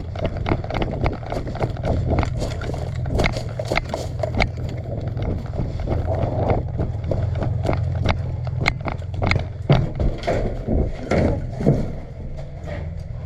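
Footsteps and the knocking and rattling of carried gear as a person walks, heard as irregular sharp clicks several times a second over a steady low rumble of wind and handling noise on a body-worn camera.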